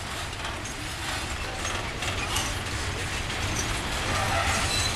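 Freight train of covered hopper wagons rolling past, steel wheels running on the rails with a steady low rumble.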